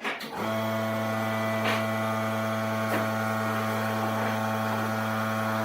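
An electric motor, likely a wood lathe's, switched on with a click and then running with a steady hum, with a few faint light knocks over it.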